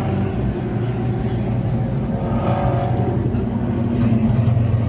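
A car engine running at a steady pitch, growing a little louder about four seconds in.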